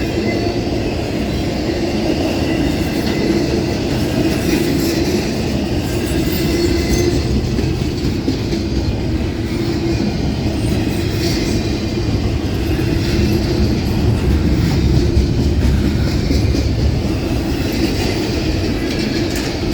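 Long CSX intermodal freight train rolling steadily past, its cars running over the rails.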